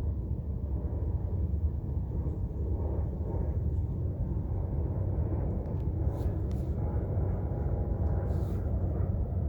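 Steady low rumbling outdoor noise, with a few faint high ticks about six and eight and a half seconds in.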